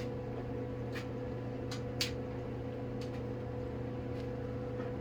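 Light clicks and taps of packaging being handled during unpacking, the sharpest about two seconds in, over a steady low hum from a fan or air conditioner.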